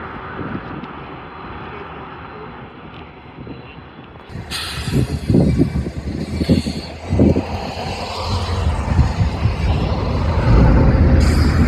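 Low rumble of a train moving through a rail yard, growing louder toward the end, with a run of heavy low thumps about five to seven seconds in.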